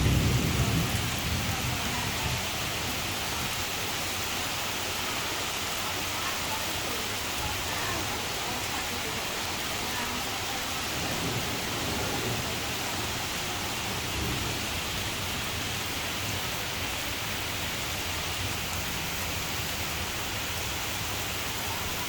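Heavy rain falling steadily, an even hiss. A low rumble fades away in the first two seconds.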